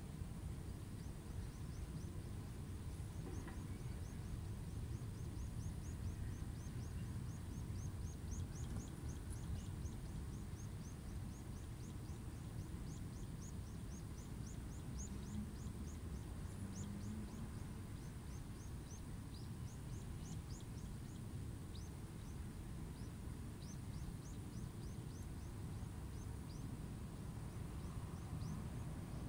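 Outdoor rooftop ambience: a steady low rumble with a small bird twittering throughout in rapid, thin, high chirps that each drop quickly in pitch.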